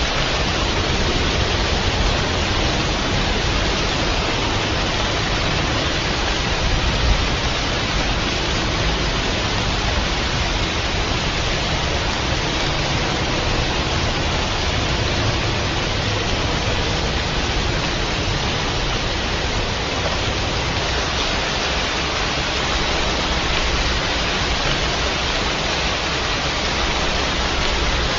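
Steady heavy rain, a dense even hiss of falling water with no separate drops or thunder standing out.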